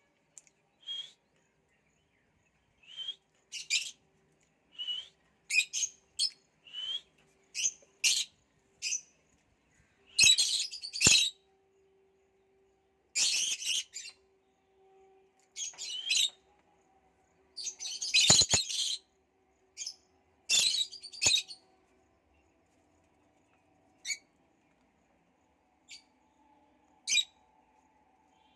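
Pet lovebirds calling: a string of short chirps, broken by several longer, harsher screeches in the middle.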